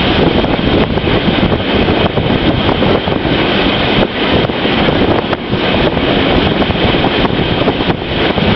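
Train running along the line, a steady, loud rumbling rush heard with wind buffeting the microphone.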